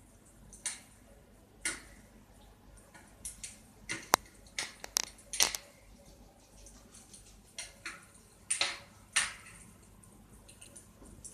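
Wood fire crackling: irregular sharp pops and snaps with quiet gaps between, thickest about four to five seconds in.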